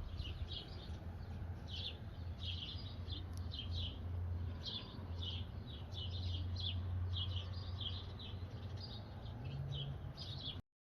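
Small birds chirping over and over, a few short chirps a second, above a steady low hum. The sound cuts off abruptly near the end.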